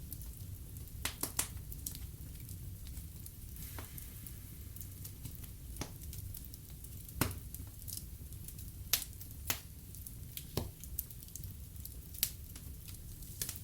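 Wood fire in a fireplace crackling: about a dozen sharp, irregular pops of burning logs over a steady low rumble of the flames.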